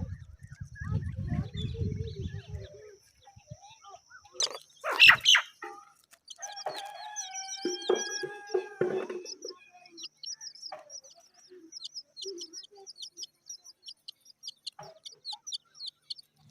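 Bird calls: a drawn-out crow-like call of about three seconds from a rooster in the middle, then a run of quick, high, repeated chirps. A few loud knocks come just before the crow.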